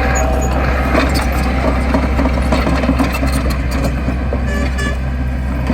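Heavy construction machine's diesel engine running steadily, with scattered clicks and knocks over it.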